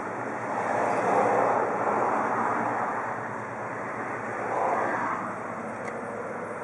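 Motor vehicle running: a steady, noisy rumble that swells louder about a second in and again near five seconds.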